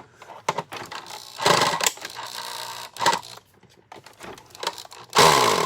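A small electric motor running in two short bursts, the second winding down in pitch, with clicks and rattles of parts being handled.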